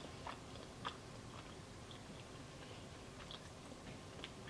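Faint chewing of a soft cinnamon roll, with a few small mouth clicks scattered through.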